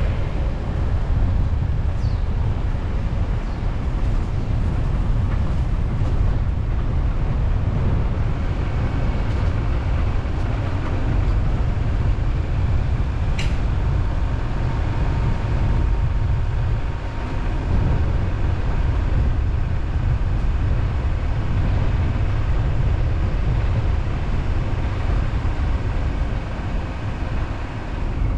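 A car driving steadily along a road: a constant low rumble of engine and tyre noise. A single brief sharp tick comes about halfway through.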